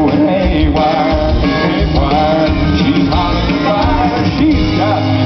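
Live band music with a singer, loud and continuous, the voice sliding between held notes over a steady bass and drums.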